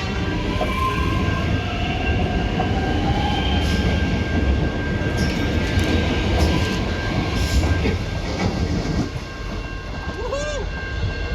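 Melbourne suburban electric train pulling away from the platform: a loud low rumble with a steady high whine and a few sharp clicks from the wheels, dying down about nine seconds in. Two short rising-and-falling calls come near the end.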